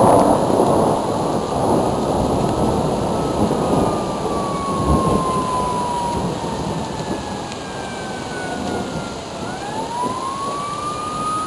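Thunderstorm: rain and thunder, with an emergency vehicle's siren wailing, its pitch sliding slowly down and then rising again near the end.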